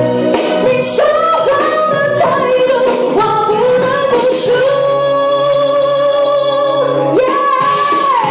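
Singing over musical accompaniment: a voice holds a long note, then slides up near the end to a higher held note.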